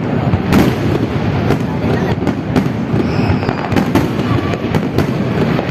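Fireworks exploding overhead, about ten sharp bangs in quick, irregular succession.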